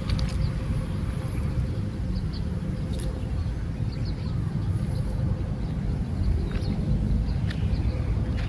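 Steady low rumble outdoors, with faint, brief high bird chirps scattered through it.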